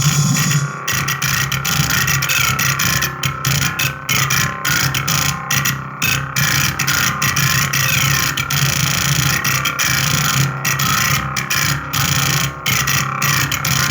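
Harsh distorted electronic noise over a steady low hum, cutting out briefly again and again, from an audio mixer fed through strange connections.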